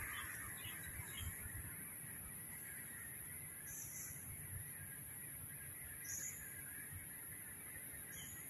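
Three short, high bird calls, about four, six and eight seconds in, over a steady high hiss of outdoor ambience.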